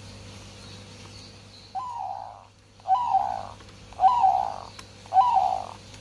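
Zebra dove (perkutut) cooing: four short coos about a second apart, each opening with a quick upward note. The bird is in breeding condition.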